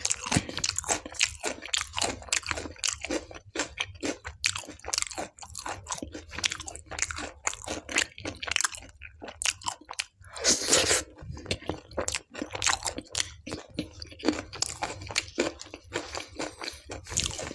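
Close-miked chewing of tandoori naan dipped in soybean dal: a steady run of wet smacking and crunching mouth sounds made of many quick clicks, with one louder, longer noise just after ten seconds in.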